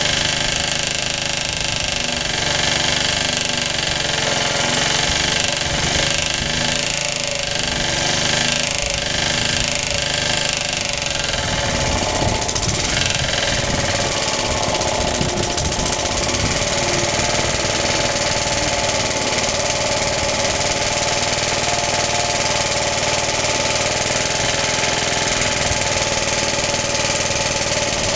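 Freshly rebuilt Suffolk engine running steadily with a loud knock. The owner later finds the knock is not from the engine itself but from something on the clutch or the shrouding.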